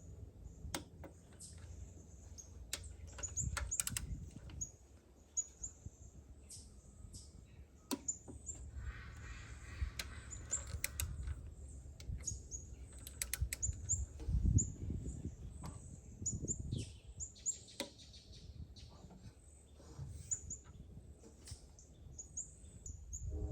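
Birds chirping repeatedly in short, high calls over a low background rumble, with scattered sharp clicks.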